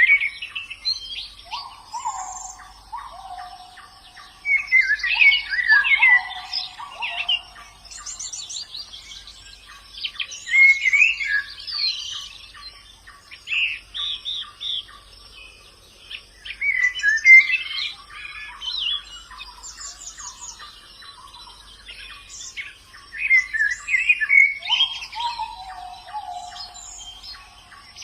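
White-eye (pleci) singing in bursts of rapid, high twittering phrases every few seconds. Lower, falling whistled notes come in near the start and again near the end.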